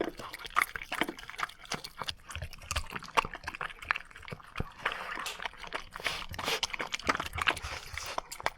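Dishes being washed in a sink: running tap water splashing, with many small clinks and knocks of bowls and utensils.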